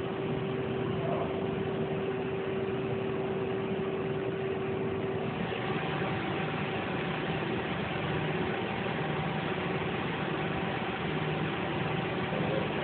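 Nakamura-Tome SC-200 CNC lathe spindle running at about 2,000 RPM with a steady whine; about five seconds in the tone changes pitch as the spindle speed changes.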